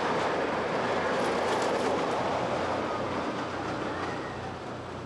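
Roller coaster train rumbling along its track, the noise slowly fading as it moves away.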